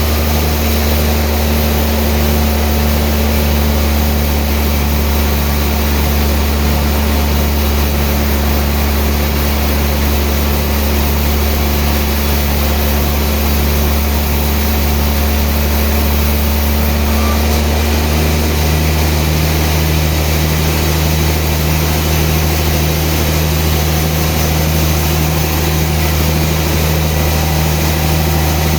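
Sawmill machinery running steadily with a loud low hum. A regular low throb a little over once a second for the first two-thirds, then the sound evens out.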